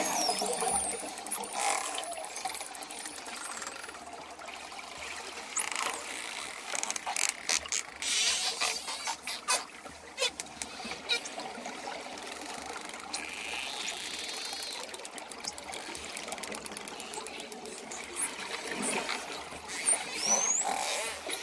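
Dolphins whistling and clicking underwater: high gliding whistles near the start and again near the end, and rapid trains of clicks in the middle.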